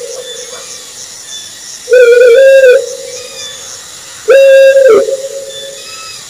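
An owl hooting: two loud, long, level-pitched hoots about two seconds apart, the second sliding down in pitch at its end, with fainter hooting lingering between them and faint high chirping behind.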